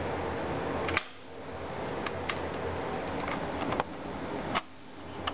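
Steady background hiss and hum, broken by several sharp small clicks and taps of handling. The hiss drops out briefly after the first click, about a second in, and again after a click near the end.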